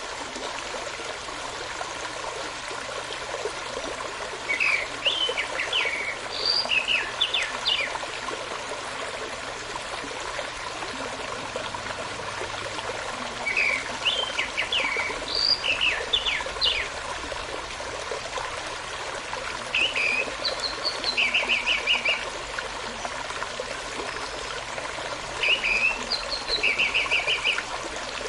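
A stream running steadily, with a songbird singing four short phrases of quick whistled notes over it; the last two phrases end in a fast run of repeated notes.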